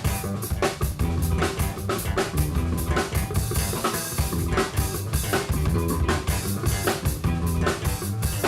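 Live band playing a song with a busy, steady drum-kit beat, bass drum and snare to the fore.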